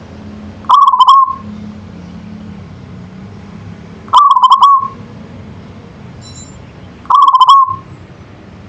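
Local zebra dove (perkutut) cooing: three short trilled coos about three seconds apart, each about half a second long and falling slightly in pitch. A faint steady low hum sits underneath.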